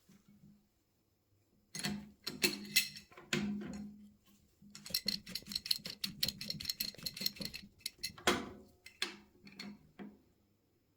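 A series of sharp knocks and clinks, with a run of rapid clicking in the middle.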